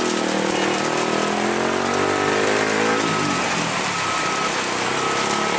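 A heavy truck's engine labouring on a steep climb, its pitch slowly rising for about three seconds and then dropping away, over the steady hiss of rain. A short high beep repeats about once a second.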